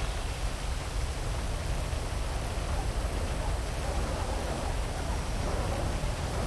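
Heavy rain falling steadily, with a deep low rumble underneath.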